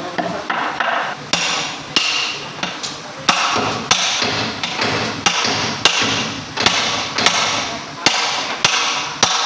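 Hammer blows on metal lorry gearbox parts, a steady series of strikes about one every half-second to second, each ringing on briefly after the hit.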